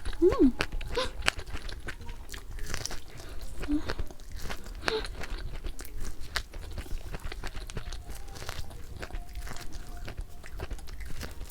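Crispy coating of BBQ butter crunch fried chicken being bitten and chewed, a dense run of sharp, irregular crunches. There is a short hummed "mm" near the start.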